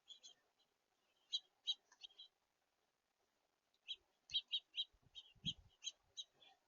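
Small songbirds chirping in short, clipped calls that come in scattered clusters, with a dull low thump about five and a half seconds in.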